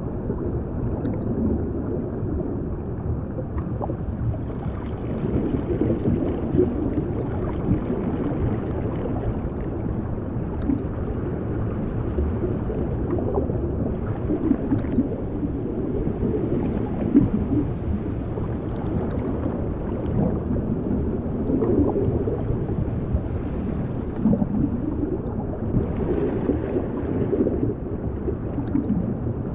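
Underwater water sound: a continuous low rumble of churning water with gurgling bubbles, swelling and easing every few seconds.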